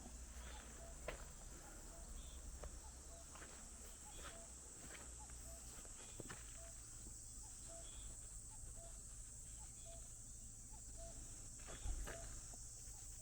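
Faint rural evening ambience: a steady high insect drone, with a short call repeating about once a second and scattered clicks and light knocks, one louder knock near the end.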